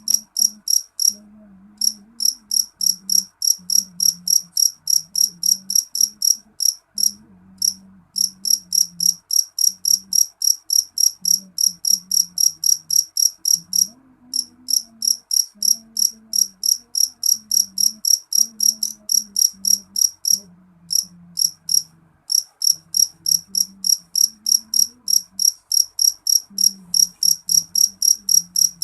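A cricket chirping: a steady train of short, high-pitched chirps at about four a second, breaking off briefly now and then before resuming.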